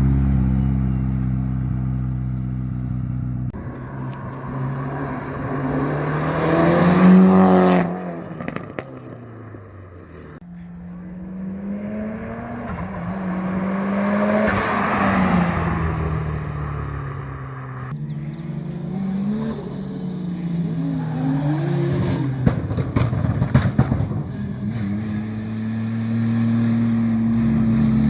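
Several cars driving past one after another, engines revving and shifting gears, with the pitch climbing and dropping as each goes by. The loudest pass is about seven seconds in, a second strong pass with gear changes comes around fifteen seconds, and short rev blips follow near twenty seconds.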